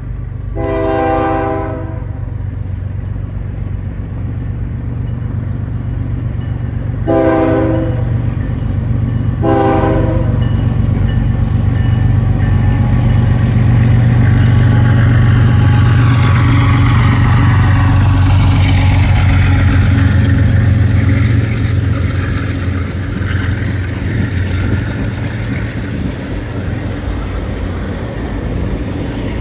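A single Canadian Pacific diesel locomotive hauling a CSX covered hopper train sounds its horn three times: one long blast about a second in, then two short blasts around seven and nine and a half seconds. Its deep engine rumble then swells as it passes. The hopper cars follow, rolling and rattling steadily on the rails.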